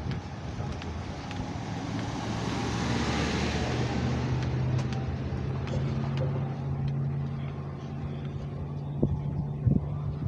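Road traffic: a car goes by, loudest about three seconds in. A steady low engine hum follows and runs on after it.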